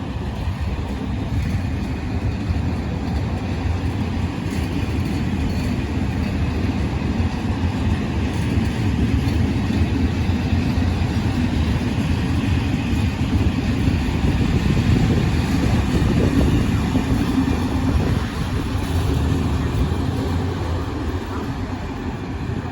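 Train running along the tracks: a steady low rumble that grows louder to a peak past the middle, dips briefly, then eases off near the end.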